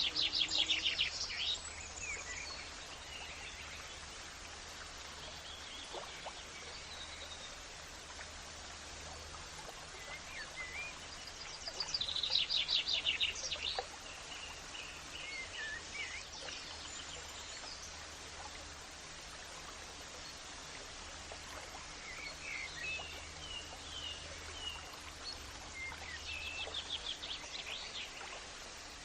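Songbirds singing over a steady background hiss. A fast trilled phrase comes three times, at the start, about halfway through and near the end, with short scattered chirps between.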